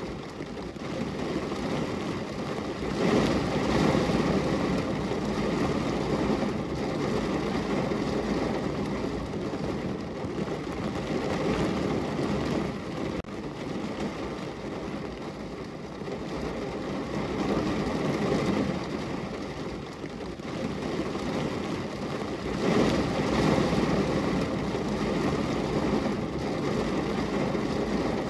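Steady rain falling on a window, a dense even hiss that swells louder about three seconds in and again near the end.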